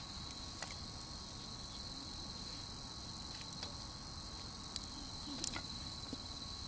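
Crickets trilling steadily on one high pitch, with a few sharp pops from the crackling wood fire, the loudest of them near the end.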